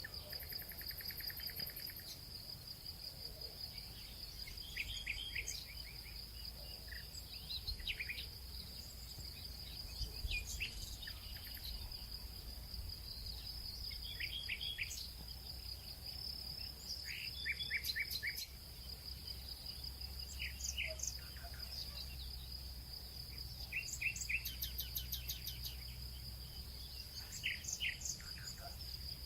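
Nature ambience: a steady, high-pitched insect trill, with short bird chirps scattered throughout and a faint low rumble underneath.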